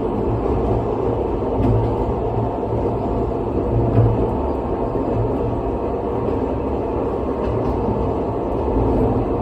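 Running noise heard inside a moving Nagano Electric Railway train: a steady low rumble of wheels on the rails, with a few faint clicks scattered through it.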